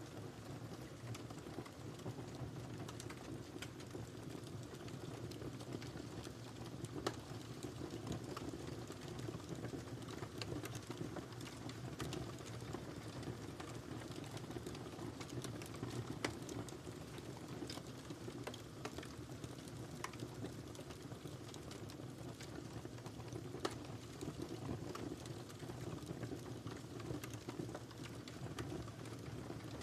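Wood fire crackling over a steady low rumble of burning, with frequent small snaps and three louder pops spread through.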